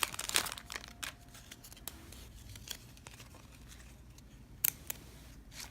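Trading cards being handled and flipped through, giving scattered light clicks and snaps. A flurry of wrapper crinkling in the first second dies away, and a couple of sharper card snaps come near the end.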